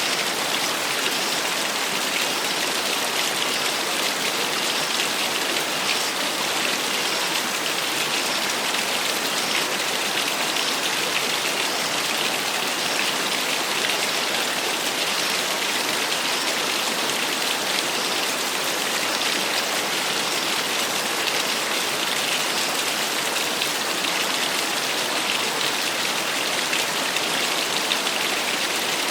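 Small waterfall splashing steadily, an even hiss of falling water.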